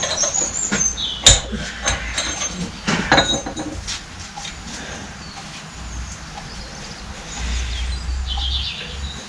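Metal tools and pump parts clinking while being handled, with two sharp knocks about a second and three seconds in. Birds chirp in the background.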